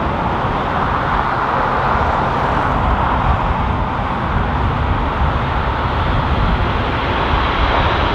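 Steady jet engine noise from a Boeing 737 MAX 8 on approach to land, with strong gusty wind rumbling on the microphone underneath.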